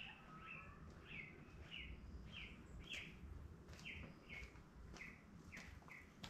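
A bird calling a faint, steady series of short, falling whistled notes, just under two a second.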